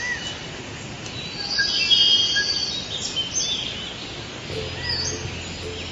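Small birds chirping: short, high, arching calls scattered over a steady background hiss, with a cluster of calls around two seconds in. Steady music tones come in near the end.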